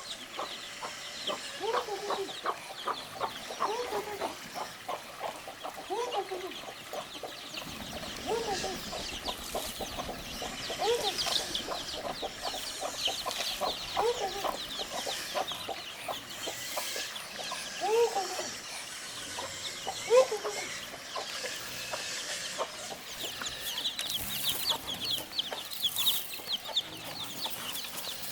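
A hen clucking in short calls every couple of seconds, with newly hatched chicks peeping rapidly and high-pitched in bursts over it.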